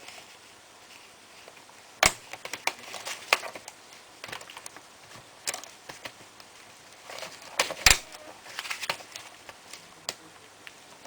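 Toshiba A300 laptop's plastic case being pried apart with a small spatula: scattered sharp clicks and snaps as the case latches let go, the loudest about two seconds in and near eight seconds, with lighter ticks and scrapes between.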